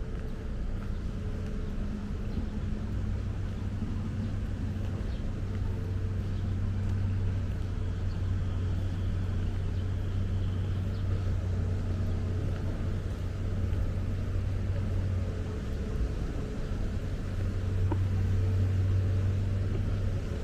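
Low, steady engine hum of road traffic, with a pitched drone that swells twice, over a general city background noise.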